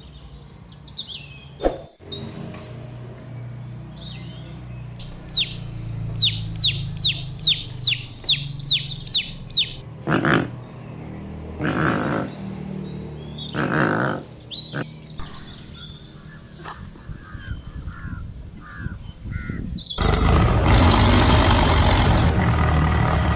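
Bird chirping: a quick run of falling chirps, about three a second, then a few harsher, scratchier calls and a thin high steady whistle. Near the end a loud rushing noise comes in and covers everything.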